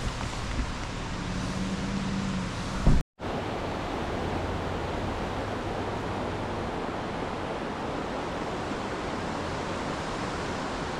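Steady rush of whitewater river water. About three seconds in there is a sharp knock, then a brief break in the sound, after which the rushing continues unchanged.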